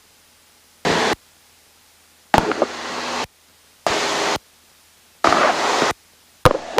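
Cessna 172 cabin audio heard through the headset intercom: the microphone's voice-activated squelch keeps opening and shutting. It lets through five short rushes of engine and wind noise, each under a second, with near-quiet gaps between them.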